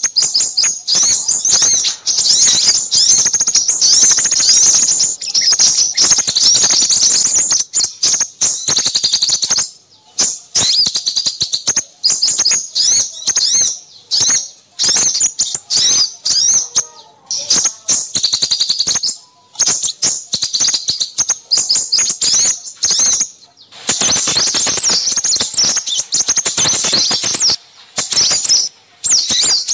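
Small birds chattering and chirping in rapid, high-pitched runs, dense and nearly unbroken with a few short pauses: a bird-lure recording meant to draw in crimson sunbirds.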